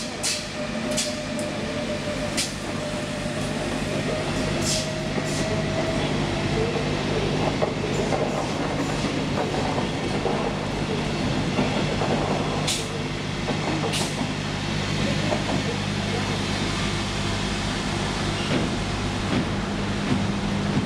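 A train at a station: a steady low hum, with a faint whine for about the first six seconds and a few sharp clicks scattered through.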